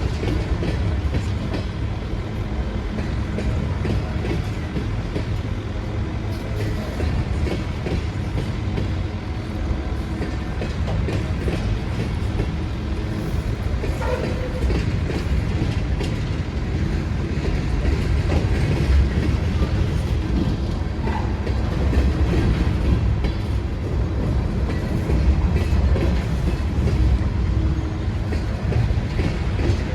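A train rolling along steadily, its wheels clattering over the rails.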